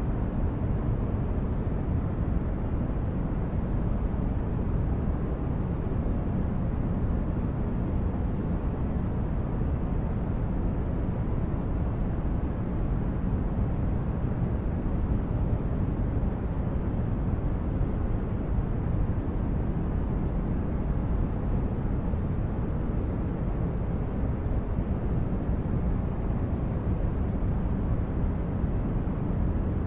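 Synthesized sci-fi spaceship ambience: a steady, unchanging rumble of brown noise, strongest in the bass.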